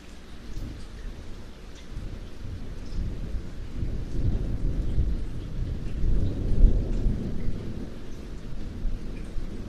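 Steady rain falling, with a long roll of thunder that builds from about two seconds in, peaks past the middle and slowly dies away.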